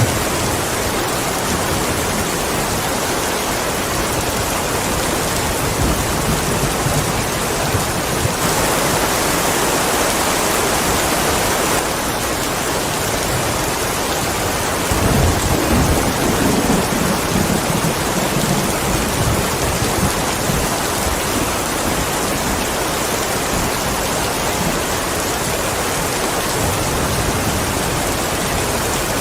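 Steady heavy rainfall with low rumbles of thunder, the strongest rolling in about halfway through.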